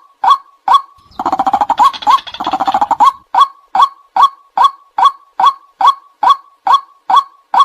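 White-breasted waterhen calling: a monotonous series of sharp 'kwak' notes at a little over two a second. About a second in, this gives way for two seconds to a rapid, rougher chattering run, then the even series resumes. It is the bird's territorial call, played back to lure waterhens.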